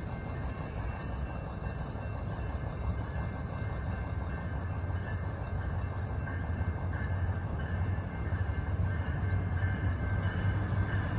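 Siemens Charger diesel-electric locomotive hauling a passenger train toward a grade crossing, its low engine drone and rail rumble growing gradually louder as it approaches. Steady ringing tones from the lowered crossing signal sound above it.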